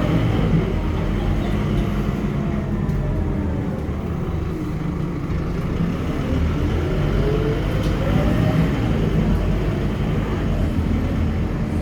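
Scania K230UB city bus engine running under way, a steady low rumble with a whine that falls away and then climbs again about seven seconds in as the bus picks up speed.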